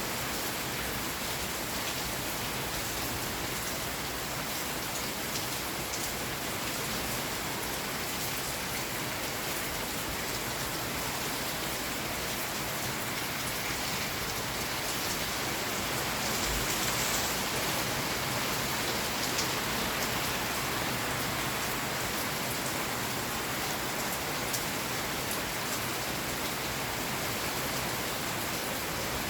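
Steady rain falling, with scattered individual drops tapping through it; it swells slightly a little past halfway.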